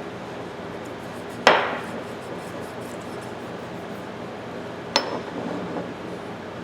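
Two sharp metallic knocks while a pipe wrench is handled during oiling: a loud one that rings briefly, then a weaker one a few seconds later followed by a short rattle.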